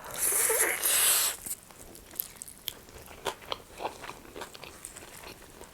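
Close-miked eating: a loud crunchy bite into a chicken wing in the first second and a half, then chewing with many small wet clicks.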